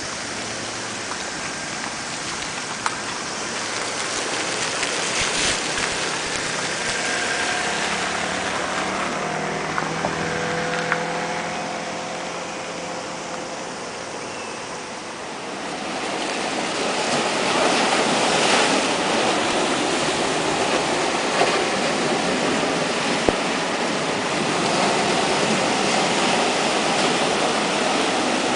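Sea surf churning and breaking as a typhoon approaches, a steady rushing noise that grows louder a little past the middle. A faint humming tone sits under it for a while before that.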